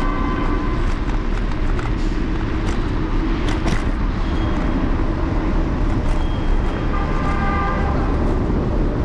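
City street traffic heard from a moving electric scooter, with steady low road and wind rumble on the handlebar-mounted microphone. A few short clicks come about halfway through.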